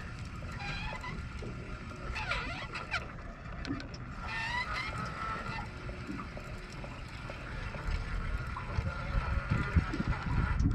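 Birds calling a few times with short chirps and falling calls, over low rumbling noise that grows louder near the end.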